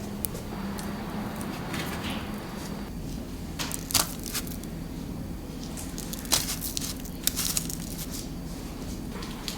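Scattered sharp clicks and soft crinkling handling noises over a steady low hum, with the loudest clicks about four seconds in, again past six seconds, and in a quick cluster a little after seven seconds.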